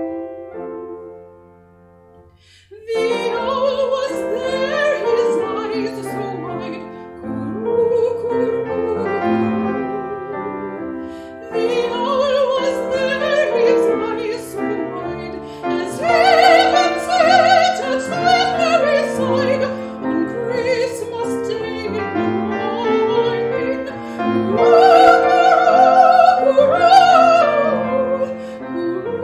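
Solo soprano singing a Christmas carol in classical style with piano accompaniment, with vibrato on the held notes. The music drops to a quiet lull about a second in, and the voice comes back in about three seconds in.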